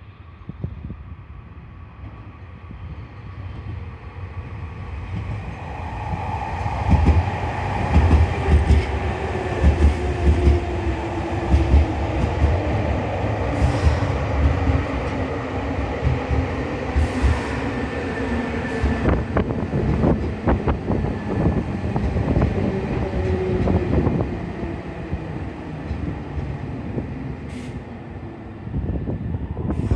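A Nankai electric train pulling into the station: its wheels clatter over the rail joints while a whine from the train falls slowly in pitch as it slows, then the sound eases off near the end.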